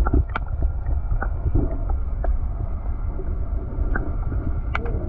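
Wind buffeting the microphone in a steady low rumble, with scattered light clicks and ticks over it.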